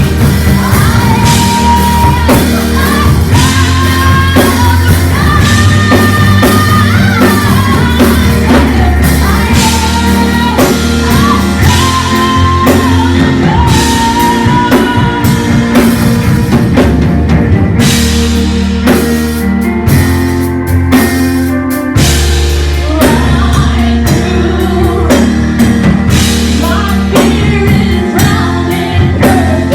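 Worship music: singing over a band with drum kit, playing steadily and loudly.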